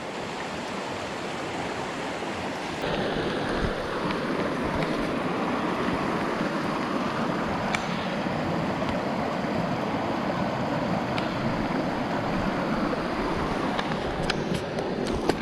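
Creek water in high flow rushing steadily, a little louder from about three seconds in, with a few faint clicks near the end.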